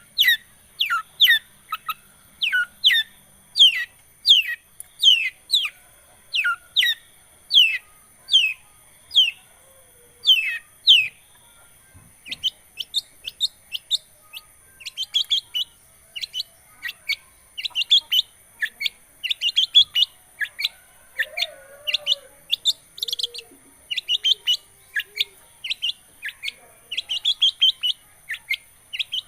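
Long-tailed shrike (cendet) singing: first a series of clear whistled notes, each sliding downward and repeated about once a second, then from about twelve seconds in a quicker run of short, high chattering notes.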